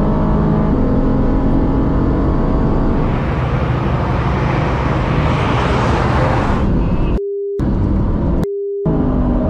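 Mercedes-AMG GT sports car's engine running hard at speed, swelling into a loud rush of engine, tyre and wind noise; about three-quarters of the way through, two short steady beeps a second apart blank out everything else, censor bleeps over swearing.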